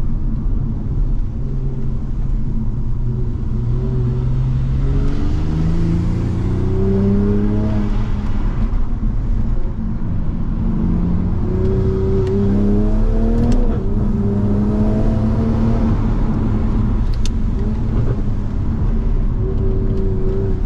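Toyota Supra MK5's turbocharged engine pulling on a wet road, over steady road and tyre noise. The revs climb for several seconds, drop about eight seconds in, then climb and fall again before holding steady near the end.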